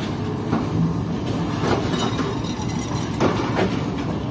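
Passenger coaches of the Tezgam Express rolling past as the train pulls out, with a steady rumble and irregular clacks of the wheels over the rail joints.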